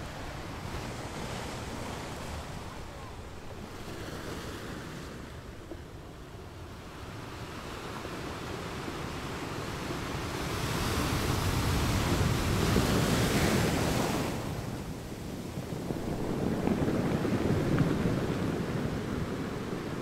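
Small ocean waves breaking and washing up a sandy beach, swelling louder twice in the second half, with wind on the microphone.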